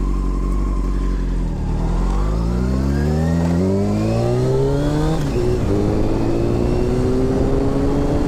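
Honda CBR600 F4i's inline-four engine under way. It runs steadily at first, then the revs climb for about three and a half seconds, drop sharply at an upshift about five seconds in, and climb again more slowly.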